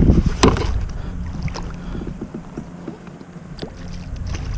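A kayak on the water: a low rumble of water and wind around the hull. Two sharp knocks come in the first half second, and a few faint clicks follow as a fish is landed.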